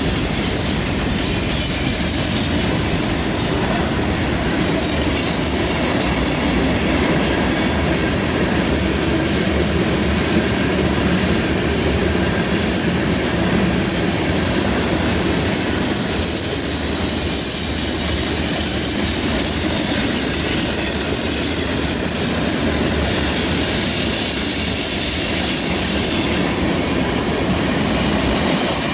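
A CN train's wheels rolling through a curve, squealing against the rails in thin high tones that come and go over a steady, loud rumble.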